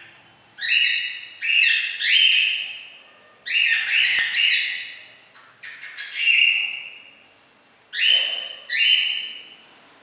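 Cockatiel giving a string of about ten loud, harsh contact calls, often in pairs with short pauses between: attention-seeking calls from a bird that is being ignored.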